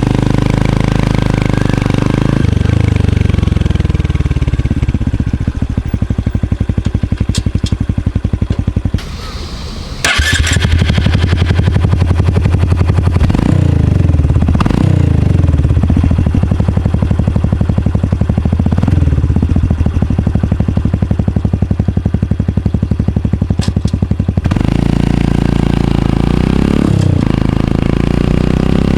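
Exhaust of a Honda CT125 Hunter Cub's 125 cc single-cylinder four-stroke through an unbaffled Minimoto SP Classic muffler, heard close up: it idles, then pulls away and climbs through the gears at moderate revs, with the pitch dropping at each shift. About nine seconds in the throttle briefly closes and a clatter follows, and near the end it settles back to a steady idle.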